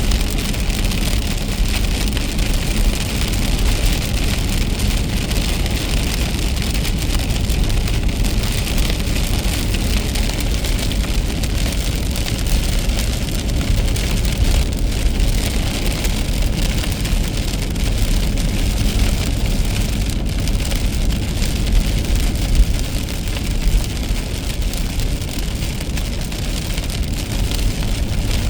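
Car driving in steady rain: an even hiss of rain and tyres on the wet road over a low rumble of the car.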